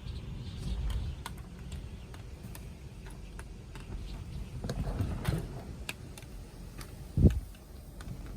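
Typhoon wind gusting outside in an uneven low rumble, with scattered light ticks and a single sharp thump about seven seconds in.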